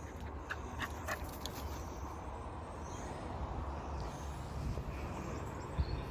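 Metal clip and tags of a dog's lead clicking and jingling as the dog is put back on its lead, over a steady low rumble. A single thump near the end.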